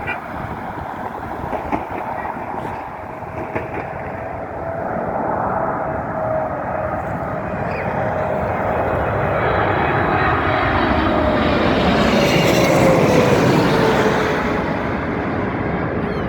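Jet airliner on final approach passing close by: its engine noise builds over several seconds and peaks about three-quarters of the way through, with a whine that slides down in pitch as it passes.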